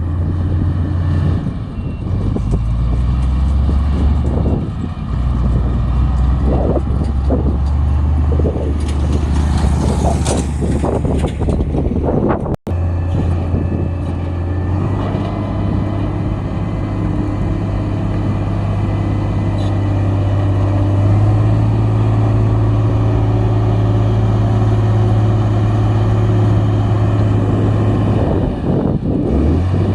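Heavy diesel engines of road-construction machinery running under load, their low engine note shifting several times, with a brief break in the sound a little before halfway.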